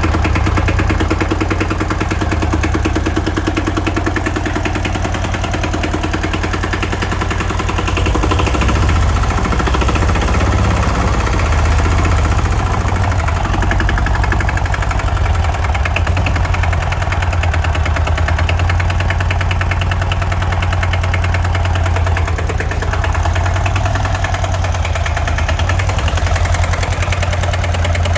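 Hatz E780U single-cylinder air-cooled diesel engine running steadily at a low, even speed, a little louder from about eight seconds in.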